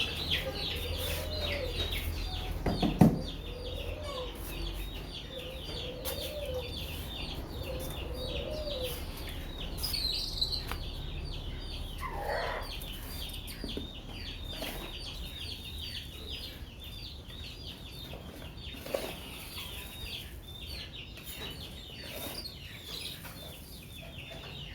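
Young birds peeping constantly: many short, high, falling peeps, several a second and overlapping, with a single thump about three seconds in.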